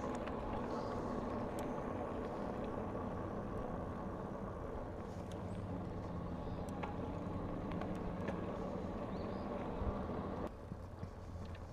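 Steady wind rush and tyre rumble from a moving bicycle, with a faint hum under it; the noise drops noticeably about ten and a half seconds in.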